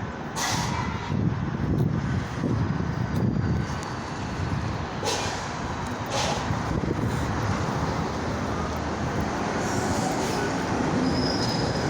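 Construction-site noise: heavy machinery running with a steady low rumble, with a few sharp knocks or clanks, one about half a second in and two more around five and six seconds.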